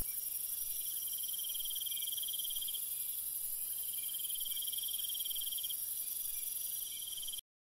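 Crickets chirping as night ambience: a steady high trill that grows stronger in two stretches, over a constant high hiss, cutting off abruptly near the end.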